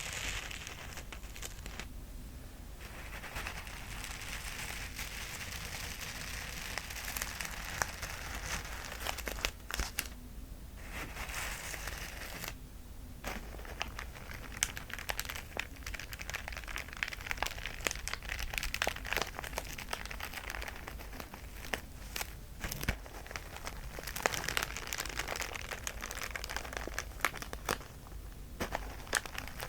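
Plastic bag of small beads being squeezed and kneaded, a steady crinkling of plastic full of tiny clicks from the beads, with a few brief pauses.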